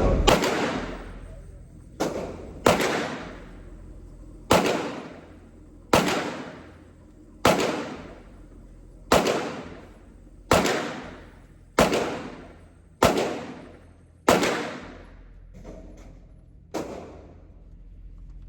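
Glock pistol being fired at a shooting range: about a dozen single shots at a slow, steady pace, roughly one every second and a half, each followed by a long echo dying away.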